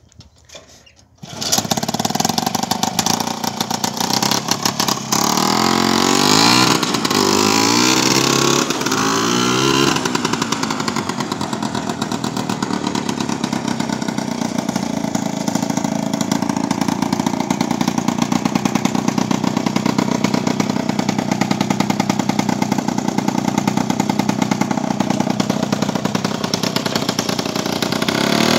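SHL motorcycle's two-stroke single-cylinder engine on a three-wheeled cargo conversion. It starts about a second in and is revved up and down a few times. It then runs at a steady, pulsing pace as the trike is ridden slowly up to ramps.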